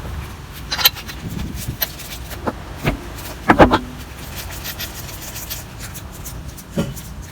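Hand tools and brake parts knocking and clattering during work on a car's front brake, with a cluster of louder knocks about halfway through and a last one near the end.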